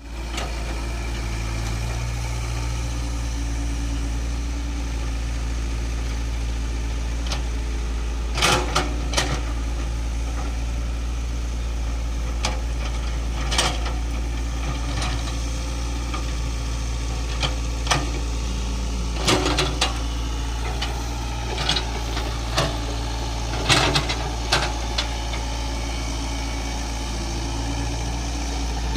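Excavator's diesel engine running steadily, with a dozen or so sharp knocks at irregular intervals, starting about a third of the way in, some in quick pairs.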